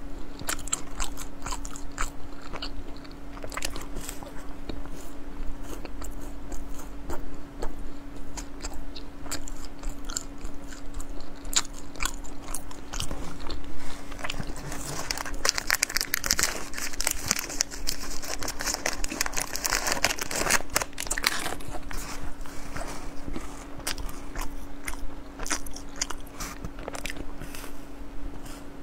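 Close-miked biting and chewing of sachima, puffed fried-dough bars. Around the middle come several seconds of dense crackling, plastic wrapping being handled as another bar is taken from the box. A steady low hum runs underneath.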